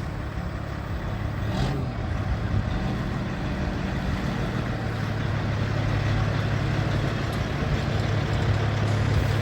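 Semi truck's diesel engine running, a steady low drone that grows louder from about halfway through.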